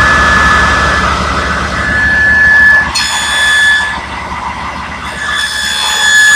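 Table saw running with a loud, high whine as it cuts a pass of a stopped dado through a board. The sound dips for a second or so past the middle, then rises again near the end as the blade bites back into the wood.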